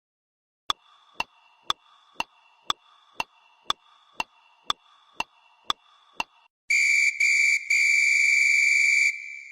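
Sound effect: a steady ticking about twice a second, twelve ticks, then a loud, high, steady whistle-like tone that breaks off twice briefly and fades out near the end.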